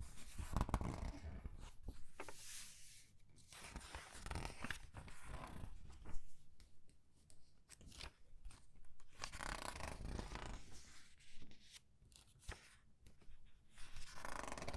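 Comic book pages being turned one after another and squeezed: a series of paper rustles and crinkling swishes, with small crackles and taps in between.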